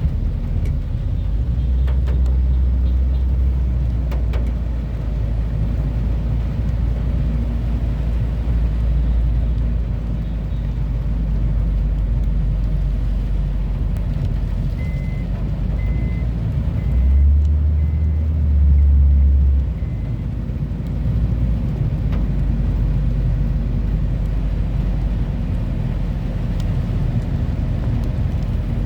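Heavy rain with a deep, steady rumble that swells louder for a few seconds about two-thirds of the way through. Around the middle a series of five short, high beeps comes about a second apart.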